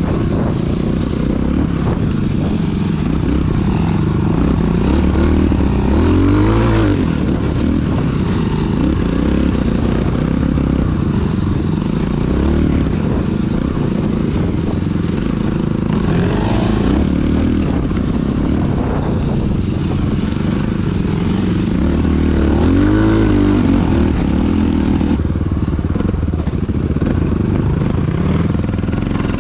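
Dirt bike engine running, with the throttle rising and falling; it revs up and back down twice.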